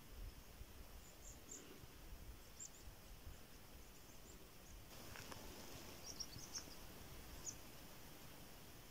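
Near silence with a few faint, high bird chirps scattered through it over a faint low rumble.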